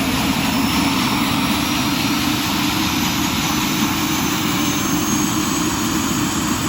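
Helicopter running on the ground after start-up, its turbine engine and rotor making a steady loud noise with a faint high whine.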